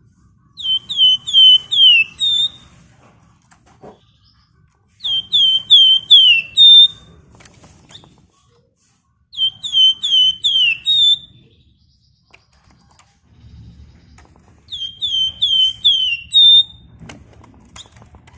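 Flamboyan (wergan Jawa) songbird singing: four repeats of the same short phrase, each a quick run of about five falling whistled notes ending in a brief held note, with pauses of about two seconds between them.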